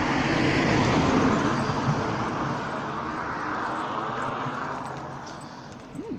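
A car passing by on the road: tyre and engine noise, loudest about a second in and then fading away.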